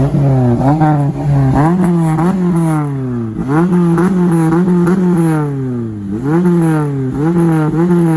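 A car engine revved over and over: each blip jumps sharply up in pitch, then slides slowly back down as the revs fall.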